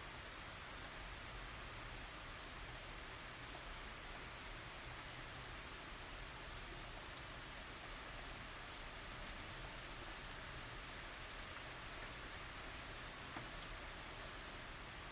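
Steady tropical rain falling, an even hiss of drops with many fine individual drop ticks.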